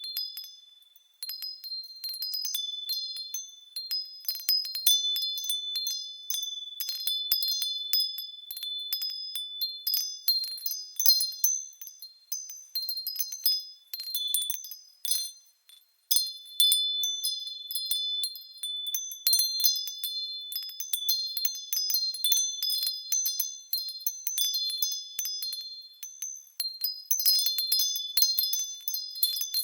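Japanese wind bells (fūrin) swinging in the breeze, their clappers striking in quick, irregular clusters of high ringing tones at several pitches. The ringing briefly dies away about a second in and again about halfway through, then picks up again.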